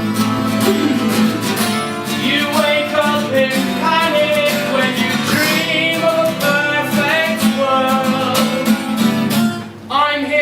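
Acoustic guitar strummed steadily in a live song, with a wavering melody line over it from about two seconds in.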